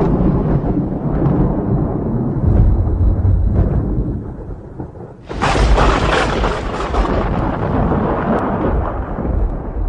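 Thunder rumbling, then a sudden sharp crack about five seconds in that rolls on into a long, slowly fading rumble.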